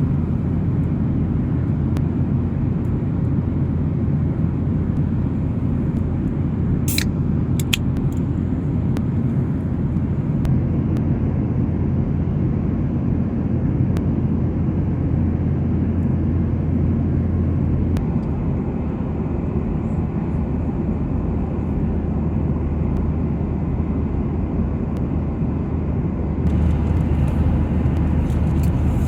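Steady low rumble of a Boeing 737-800's engines and rushing air, heard inside the passenger cabin in flight, with a few sharp clicks about seven seconds in.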